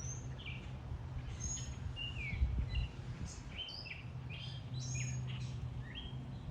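A songbird singing a rapid, varied string of short chirps and slurred whistles, one phrase after another with little pause. A steady low hum runs underneath, and there is a brief low thump about two and a half seconds in.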